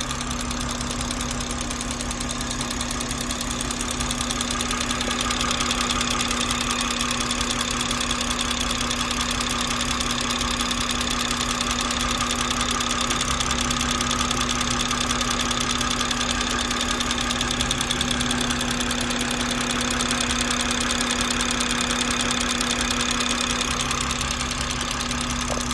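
BMW B58 turbocharged 3.0-litre inline-six running steadily with a loud, rapid ticking over it. This is the noise the owner is pointing out as a possible fault. The engine gets a little louder about five seconds in.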